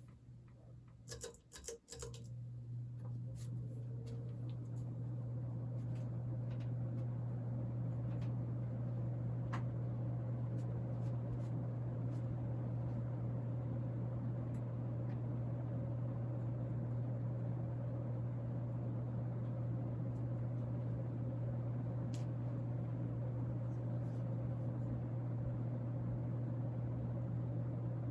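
Fasco Charleston third-generation ceiling fan: a few clicks of the speed switch, then the motor's steady hum swells over several seconds as the fan spins up to high speed, and it runs on evenly.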